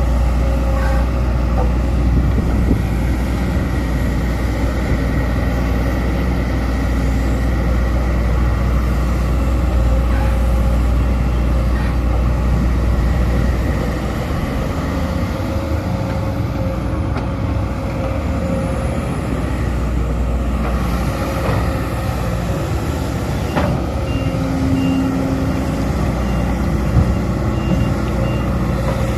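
Sumitomo SH210 hydraulic excavator's diesel engine running steadily under working load, with a constant pitched drone. Its deep rumble eases about halfway through. A short run of faint high beeps comes near the end.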